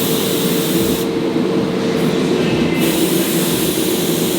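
Paint spray gun hissing as it lays down pearl blue paint, breaking off about a second in and starting again a second or two later, over a steady machine hum.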